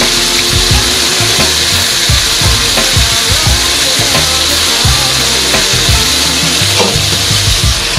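Salmon fillets sizzling as they fry in oil in a pan: a steady, loud hiss.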